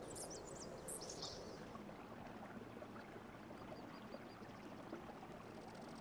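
Faint, very high-pitched chirps of a small bird, a few in the first second or so and softer ones near the middle, over a steady soft outdoor hiss.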